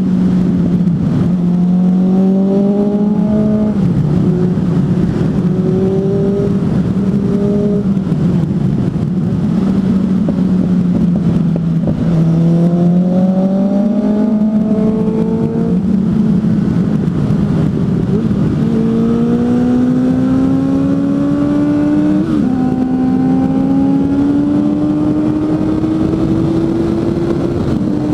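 Suzuki GSF 600 Bandit's inline-four engine with an aftermarket exhaust, under way on the road. The note climbs as it pulls, drops sharply at gear changes about four seconds in and again near the end, and rises steadily through the second half, over a steady rush of wind.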